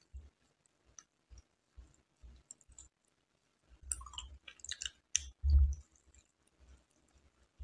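Close-miked chewing of a soft, filled Indian sweet, with wet mouth clicks scattered throughout and a quick run of crisp clicks about four seconds in. A dull low thump a little past the middle is the loudest sound.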